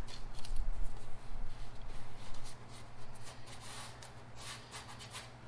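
Masking tape being pulled from the roll and rubbed down onto a car's body panel: irregular rustling and rubbing, busier in the first half and thinning out towards the end, over a steady low hum.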